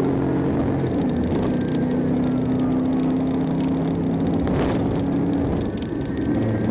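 Patrol car's engine droning steadily under road and tyre noise during a high-speed pursuit.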